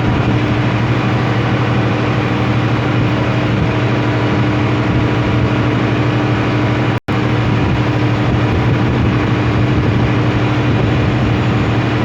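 Steady low hum over an even hiss, cutting out suddenly for a moment about seven seconds in.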